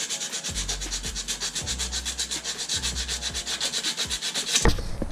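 Sandpaper rubbed by hand over a metal ground contact point in quick, even scratching strokes, about ten a second, cleaning the surface down to bare metal for a good ground connection. The strokes stop shortly before the end, and a louder sound follows.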